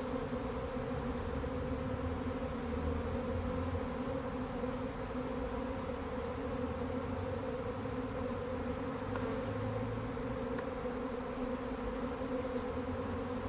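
Honeybees from the colony buzzing in a steady, even hum.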